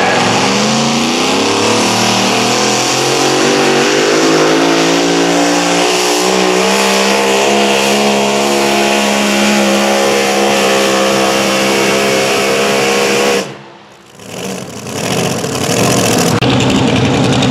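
High-horsepower competition pulling vehicle's engine at full throttle under load, its pitch climbing slowly as it pulls the sled. The sound cuts off abruptly about three-quarters of the way through, then loud engine noise returns a couple of seconds later.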